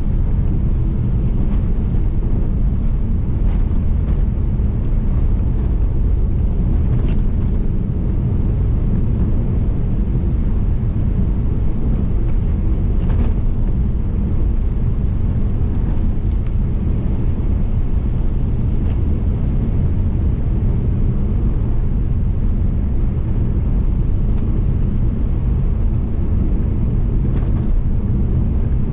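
Car driving on the road: a steady low rumble of tyre and engine noise, with a few faint ticks scattered through it.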